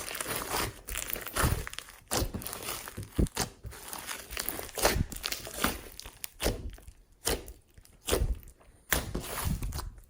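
Glossy slime being squished and kneaded by hand, making dense, irregular wet crackles and sharp popping snaps.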